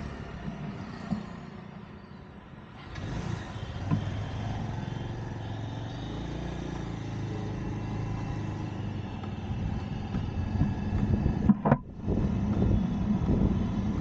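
Road traffic heard from a moving vehicle in city streets: a steady engine drone and tyre noise that grows louder about three seconds in, with a brief loud thump near the end.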